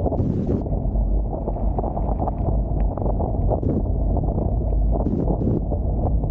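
Wind rumbling on the microphone over water rushing along the hulls of a Hobie Tiger F18 catamaran under sail, with a few short hisses near the start and about five seconds in.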